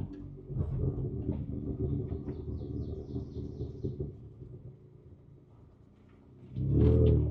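Ford Ranger Raptor's twin-turbo V6 heard from inside the cab, running low on the throttle at trail-crawling speed amid scattered knocks, easing off to a quiet idle-like level, then revving up loudly near the end.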